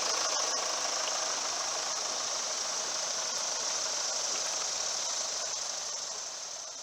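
Mercedes-Benz 2.1 L twin-turbo four-cylinder diesel idling under an open hood, a steady, very quiet purr. It fades somewhat toward the end.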